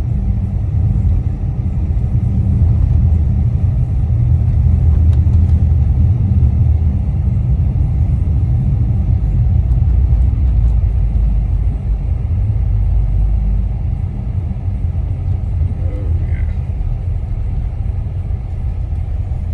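Steady low rumble of road and tyre noise inside a car's cabin while it drives along a snow-covered highway.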